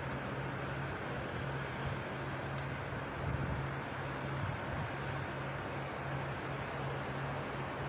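A vehicle engine running steadily at idle, a low hum that drops in and out, with a few faint high chirps.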